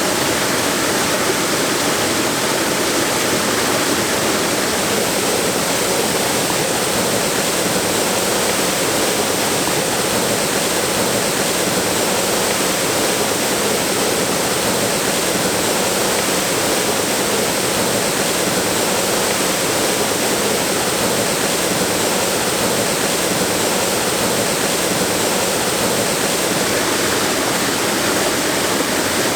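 Waterfall: water pouring down over rocks in a steady, unbroken rush.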